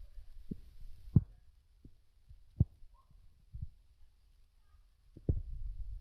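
Several separate dull thumps, about half a dozen, over a low rumble, which grows louder near the end.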